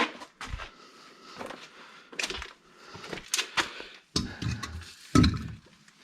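Irregular knocks and clatter of hard objects being handled and set down, about half a dozen, with the loudest thump about five seconds in.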